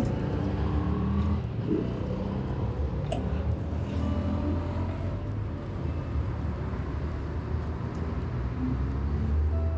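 Motorcycle engine running under way, a steady low rumble. The rider suspects the spark plug, troubled by humid weather, is what is upsetting the engine.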